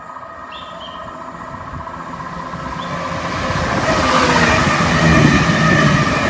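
Chiltern Railways Class 168 diesel multiple unit approaching and running along the platform, its engine drone and wheel-on-rail rumble growing steadily louder and loudest about five seconds in.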